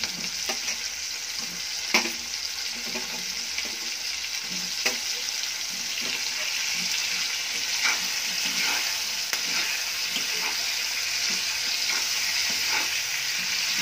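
Oil and onion-tomato masala sizzling steadily in a kadai, with a spatula scraping and knocking against the pan as it is stirred. Raw plantain slices are tipped in and stirred through.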